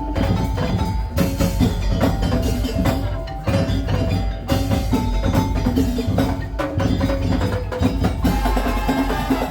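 Madurese tong-tong ensemble playing: wooden slit drums and other percussion struck in a dense rhythm, with held pitched notes sounding over the beat.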